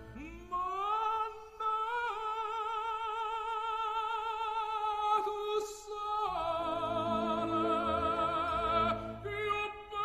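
Background music: an operatic voice singing long held notes with strong vibrato, with instrumental accompaniment. The voice changes note about six seconds in and starts a new one near the end.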